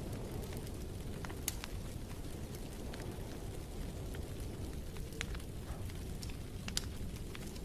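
Wood fire crackling in a fireplace: a steady low rumble of flame with scattered sharp pops and snaps, the loudest about a second and a half in and again near the end.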